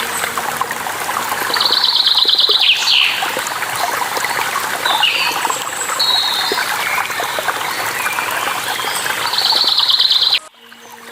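Running water rushing steadily while birds chirp over it, one bird giving a rapid high trill twice. Near the end the water sound cuts off abruptly, leaving a quieter steady hum.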